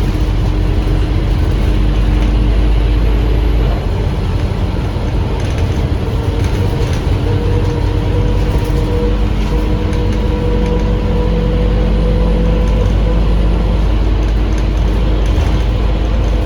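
Scania K310UA articulated bus under way, heard from on board: its Scania DC9 engine and ZF Ecomat automatic transmission give a steady low rumble with several steady whining tones over it.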